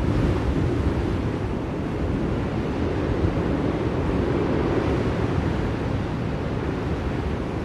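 Blizzard wind blowing steadily, a low, even rushing noise with no distinct gusts or other events.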